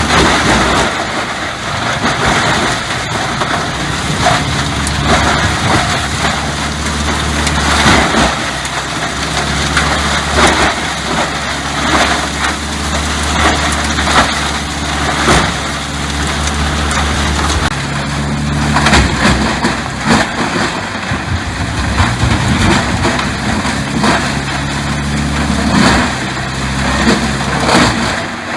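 A heavy machine's engine running steadily, with repeated irregular crunching and cracking of wood being broken up.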